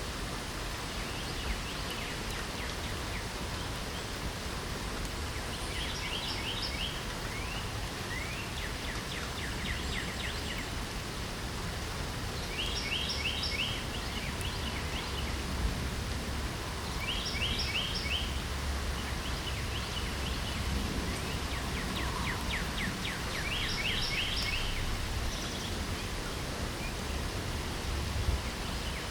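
Steady spring rain with a songbird singing a short phrase of quick, rapid notes over it, repeated several times every few seconds.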